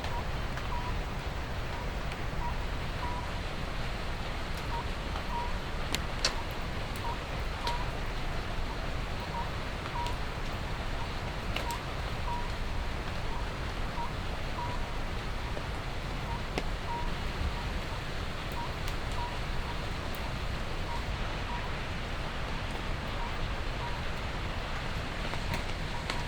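Steady rain noise with a short, high pip repeating at uneven intervals about every half second to a second, and a few sharp ticks.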